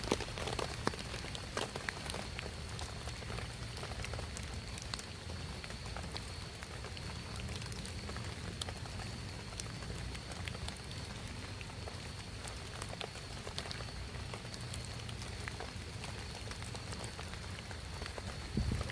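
Steady rain falling, with individual drops pattering in scattered ticks over an even hiss.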